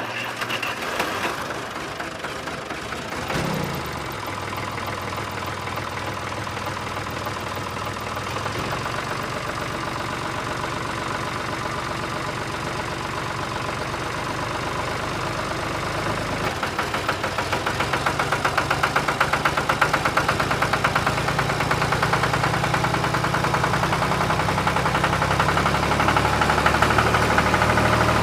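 Small motor of a miniature model tractor running steadily with a fast rhythmic buzz, getting louder and deeper from about halfway through.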